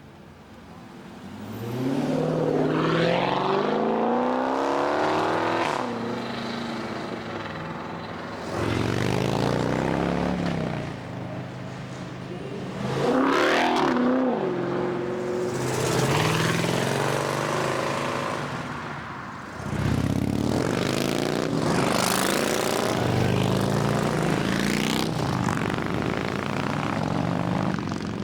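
Several cars accelerating hard away one after another, each engine note climbing in pitch and dropping back as it shifts up through the gears, with loud exhausts.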